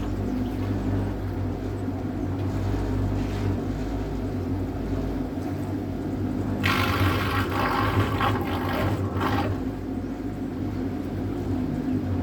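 Electric boat motor humming steadily while the boat moves. A few seconds of water rushing and splashing against the hull come a little past the middle.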